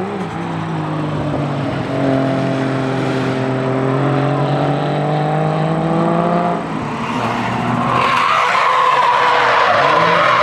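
Drift car engine held at high revs through a slide, its note climbing slightly, then tyres squealing loudly for the last couple of seconds; the engine revs rise briefly near the start and again at the end.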